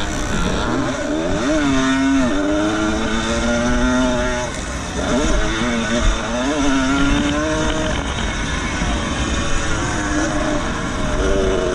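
Vintage 125cc two-stroke motocross bike engines racing, revving up and falling back again and again as they shift and come off the throttle, with more than one engine heard at once.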